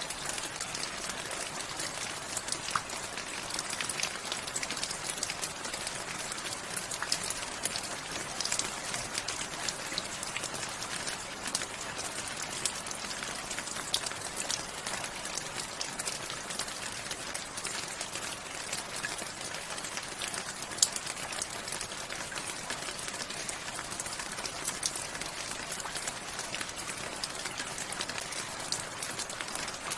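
Steady rain falling, an even hiss with many individual drops ticking on hard surfaces and one sharper drop hit about 21 seconds in.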